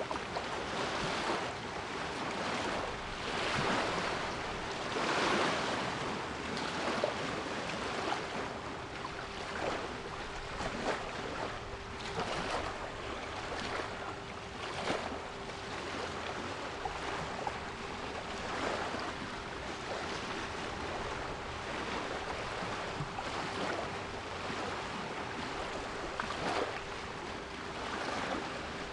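Sea waves washing and breaking in repeated surges, with a quieter steady 396 Hz pure tone held underneath.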